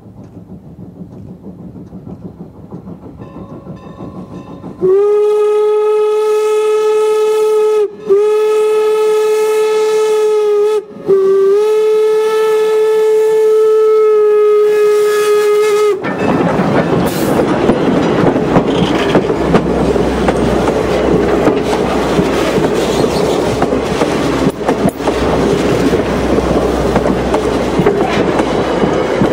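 Steam locomotive whistle, Norfolk & Western 4-8-0 No. 475, sounding three long blasts, the last held longest. After the blasts the train runs close by in a loud, steady rush of noise.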